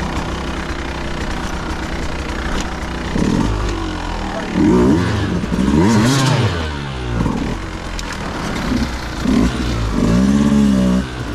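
Dirt bike engine running low and fairly steady for about three seconds, then revved up and down again and again as the throttle is worked.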